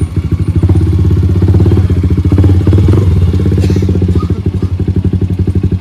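Motorcycle engine idling with a loud, even, rapid throb.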